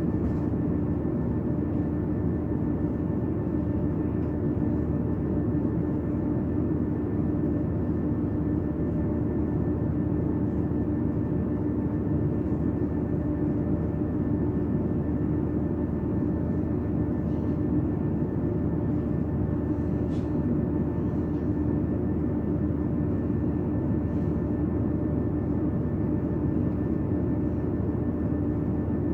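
Steady running noise of a train heard from inside the carriage: an even low rumble with a constant engine or motor hum under it, and a few faint ticks.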